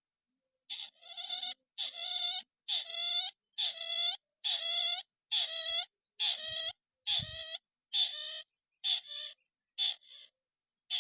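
Crake (burung tikusan) calling: a series of about a dozen nasal, ringing notes, roughly one a second, getting shorter and choppier toward the end. A faint steady high whine runs underneath, and there are a couple of soft low bumps midway.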